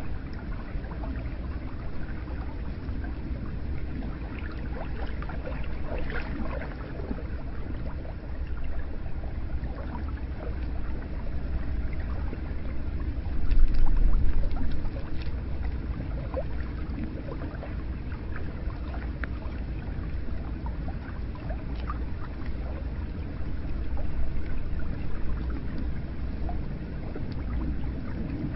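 Hot spring water pouring and splashing steadily into an onsen bath, with scattered small drips and trickles and a brief louder surge about halfway through.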